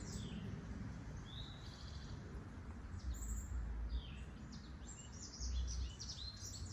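Small birds chirping repeatedly with short, high calls, some of them gliding. A couple of low rumbles come about three seconds in and again near the end.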